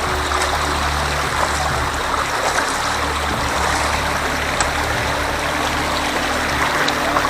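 Steady rush of running water from a flowing stream.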